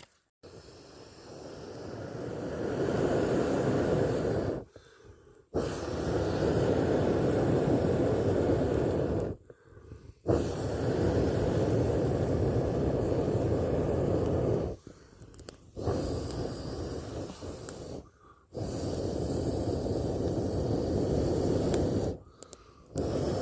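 Long blowing breaths, each a rushing hiss lasting several seconds, with short pauses between: a person blowing steadily into the campfire to get it burning.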